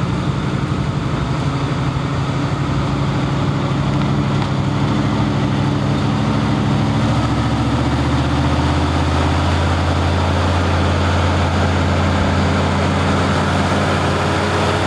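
Heavy engine running steadily, its low hum shifting in pitch about halfway through.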